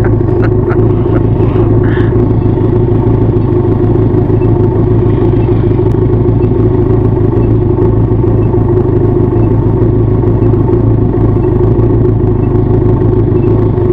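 Benelli TRK 502 motorcycle's parallel-twin engine and exhaust running at a steady, unchanging speed while cruising, with a few light clicks in the first second.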